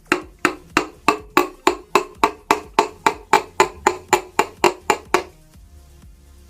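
A hammer striking in a fast, even rhythm, about twenty blows in just over five seconds, each with a short ring, then stopping.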